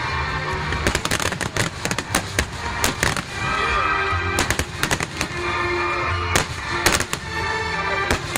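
Starmine fireworks firing in quick succession: many sharp bangs and crackling bursts, thickest about a second in and again around the middle, with music playing alongside.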